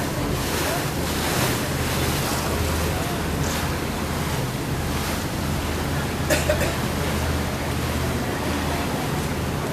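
Tour boat under way: a steady low engine hum under wind buffeting the microphone and water rushing past the hull. A brief double knock about six seconds in.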